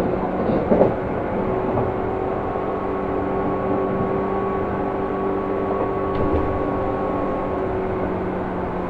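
Seibu New 2000 series commuter train heard from inside a car while running: a steady rumble with several steady hum tones, and a short clatter about a second in.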